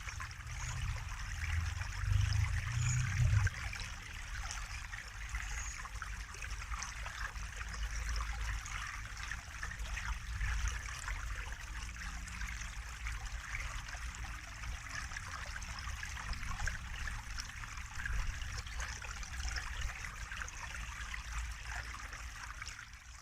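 Water trickling and splashing steadily, like a small stream, over a low rumble that swells briefly about two seconds in. The sound begins to fade away at the very end.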